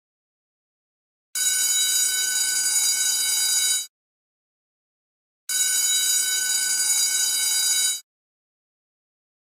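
Electric school bell ringing in two bursts of about two and a half seconds each, starting and stopping abruptly, with silent gaps of about a second and a half between them.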